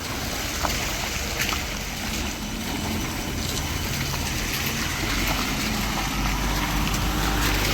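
A vehicle engine running under a steady rush of water noise, like wheels moving through standing rainwater on a waterlogged road.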